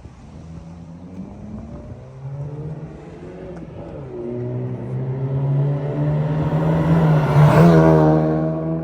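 2012 Honda Civic's 1.8-litre four-cylinder exhaust running at steady revs. It grows louder to a peak about seven and a half seconds in, with a rush of noise, then eases slightly.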